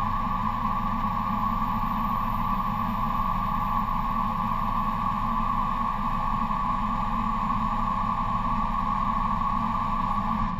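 A steady machine hum, like a running motor, that holds an even pitch and stops abruptly at the end.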